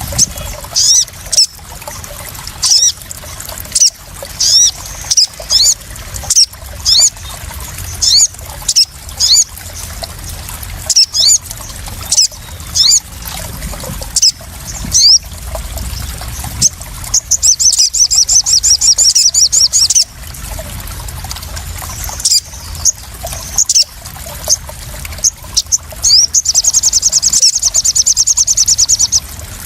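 Crimson sunbird (sogon) calls: sharp, high, down-slurred chirps repeated one or two a second, with two fast rattling trills of about three seconds, one about two thirds of the way through and one near the end. Under them runs a steady sound of trickling, splashing water. This is a lure sound used to settle and draw out caged sunbirds.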